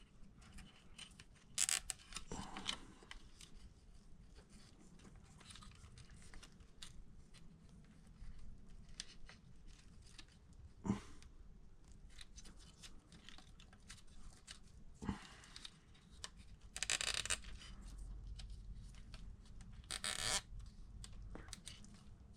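Faint handling of a plastic cable tie and small RC car parts: scattered light clicks and knocks, then two short zipping rasps near the end as the zip tie is pulled tight around the shock band.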